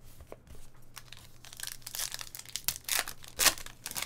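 Trading cards and their plastic pack wrapping being handled: crinkling and rustling, with a few sharp clicks near the end.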